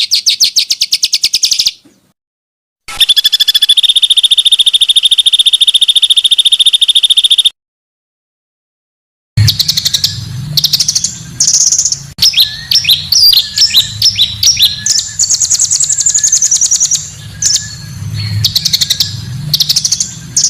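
Small songbirds singing in separate spliced recordings: a fast high trill, then a steady rapid trill held for several seconds, then varied chirping phrases over a faint low hum, each piece broken off by an abrupt silence.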